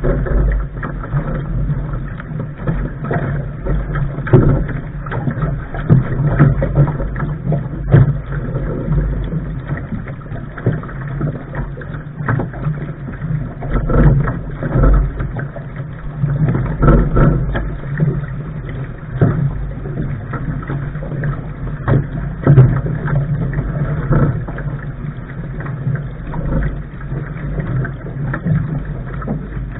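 Wind buffeting the microphone and water rushing and slapping against the hull of a Lark sailing dinghy under sail, with irregular knocks and splashes.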